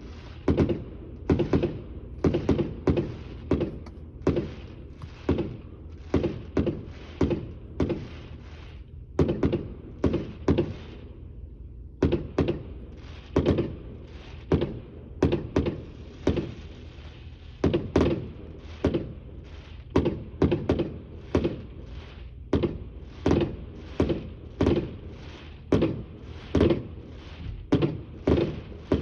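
Aerial firework shells bursting in a rapid, continuous series of booms, about one or two a second, with a brief lull about two fifths of the way in.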